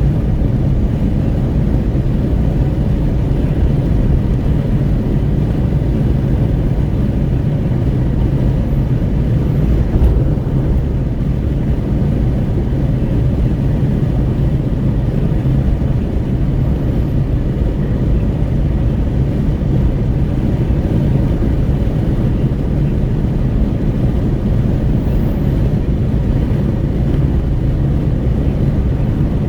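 Steady wind rush at a car window and road rumble inside a Renault Kwid 1.0 cruising at highway speed, the noise heaviest in the low range and unchanging throughout.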